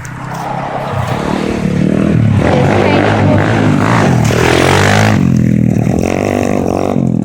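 Pit bike's small single-cylinder engine revving as the bike approaches and passes close by, its pitch dropping as it goes past, then fading away.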